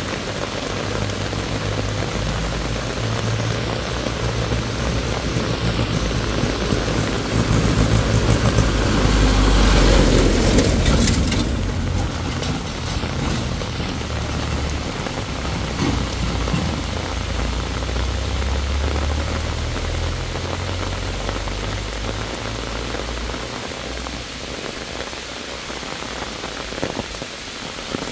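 Heavy rain pouring down on a dirt path and roadside foliage, with a tractor engine running underneath as it approaches, passes close about ten seconds in, then fades, leaving rain alone near the end.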